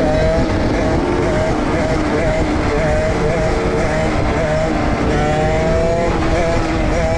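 Dirt bike engines running under way, their pitch rising and falling with the throttle and climbing steadily for a couple of seconds near the end.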